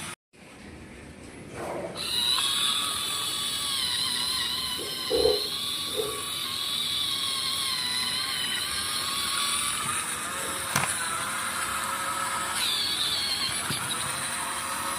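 Small electric gear motors of handmade RC model tractors running with a steady high-pitched whine, which starts about two seconds in after a brief silence. A couple of short knocks come near the middle, and a sharp click later on.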